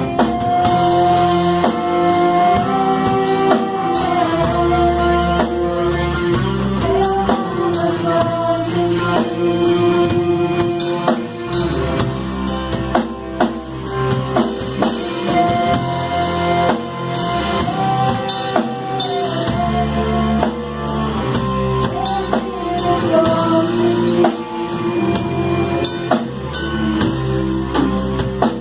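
Contemporary worship band music with a steady drum-kit beat, guitars and a held melody line that steps between notes, in a passage without sung words.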